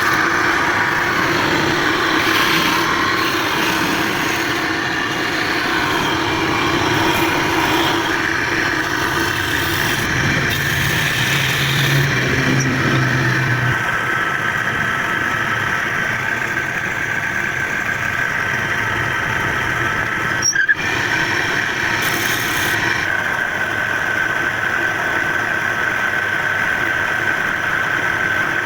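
Steady running of a motor-driven wood lathe, with a sharp click about twenty seconds in.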